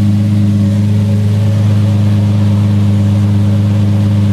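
Car engine running at a steady pace, a loud low drone that holds one pitch throughout.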